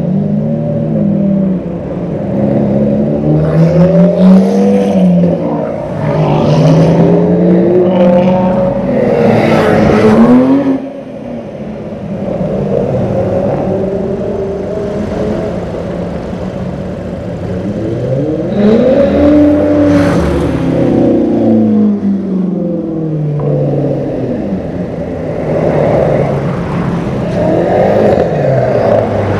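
Performance cars and supercars accelerating away one after another, engines revving up in rising sweeps and dropping back, over and over. One hard run ends with a sudden drop in loudness about eleven seconds in.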